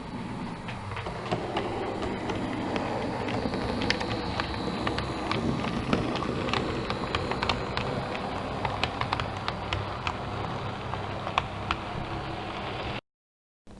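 A train running along the track, its wheels clicking irregularly over the rail joints above a steady running hum. The sound cuts off abruptly shortly before the end.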